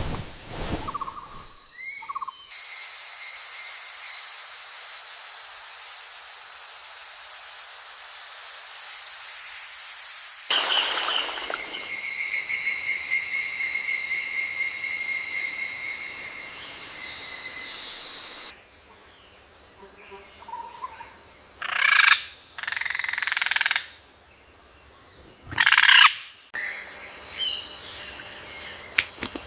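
Rainforest insects buzzing in a steady, high-pitched chorus, changing abruptly several times as the recording is cut. A few short, loud animal calls come in the last third.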